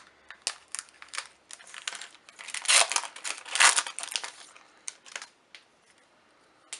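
Foil booster pack wrapper crinkling and being torn open, with two louder rips about three seconds in amid small crackles and clicks of handling.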